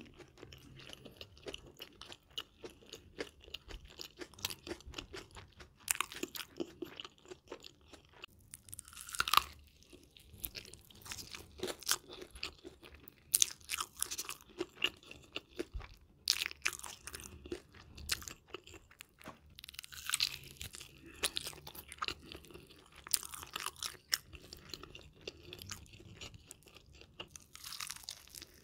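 Close-miked eating: biting into and chewing sauce-coated fried chicken, a dense run of small crackly crunches with a few louder bites.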